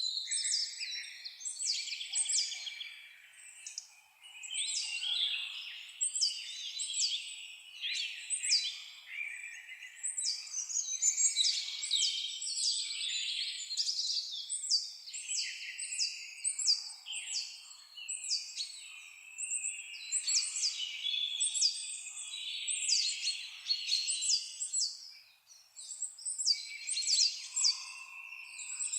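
Several songbirds singing and chirping at once: runs of rapid, high, sharp chirps over lower warbling phrases, overlapping without a break.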